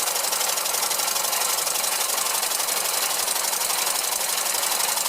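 Small 1912 oscillating model engine running on compressed air, driving a tin-toy line shaft and its belt-driven toys, with a fast, even mechanical clatter.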